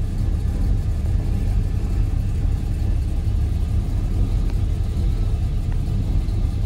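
An old car's engine and drivetrain heard from inside the cabin while driving, a steady low rumble.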